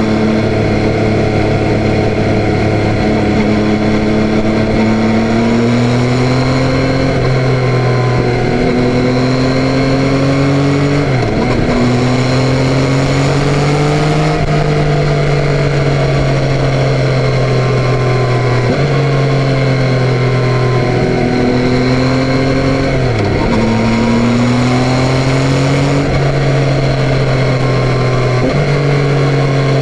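Yamaha Tracer 9's 890 cc inline three-cylinder engine under way, pulling through the revs with a rising engine note that drops sharply at each gear change, several times over.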